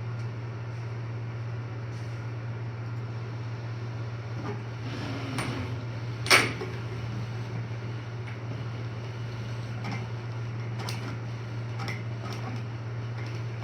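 Air hockey table's blower humming steadily, with scattered light clicks and one loud sharp knock about six seconds in as the puck is struck.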